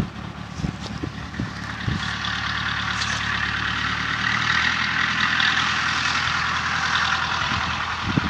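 Briggs & Stratton 6 HP single-cylinder engine of a homemade tractor running, uneven at first, then steadier and a little louder from about two seconds in.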